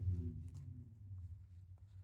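Low, steady engine rumble of a vehicle idling or cruising in the parking lot, heard from inside a truck cab. A faint pitched hum above it fades over the first half second.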